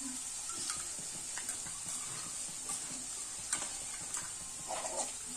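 Onion paste frying gently in oil in a kadhai, a steady faint sizzle, with a few light clicks of a spoon stirring besan batter in a small metal bowl.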